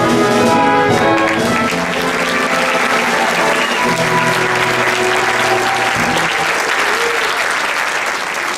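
Audience applauding, building up over the first couple of seconds, while the show's music plays on underneath.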